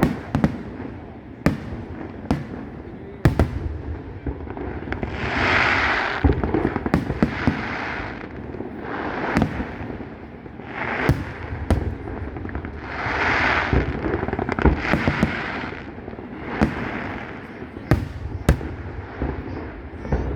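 Fireworks display: a steady run of sharp bangs from bursting shells, with two longer hissing stretches about five and thirteen seconds in.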